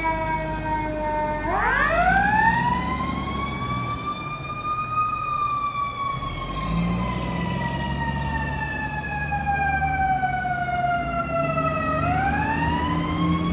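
Fire engine siren wailing. Its pitch falls, climbs steeply about a second and a half in, sinks slowly over several seconds, then climbs again near the end, over the low rumble of the truck's engine.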